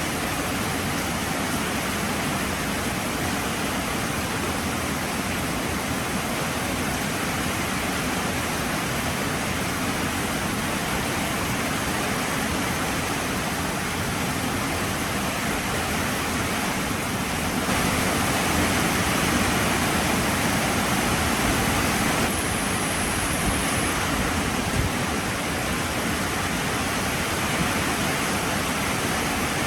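Heavy rain falling steadily as an even hiss, coming down harder for a few seconds a little past the middle.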